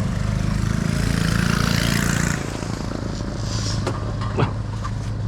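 Vehicle engine running, louder for the first two seconds or so and then easing back to a steadier, quieter hum.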